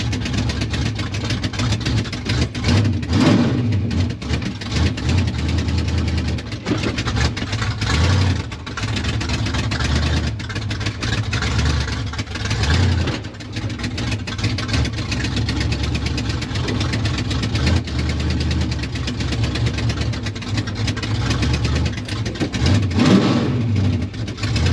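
Mud truck engine running, revving up and easing off several times with the throttle.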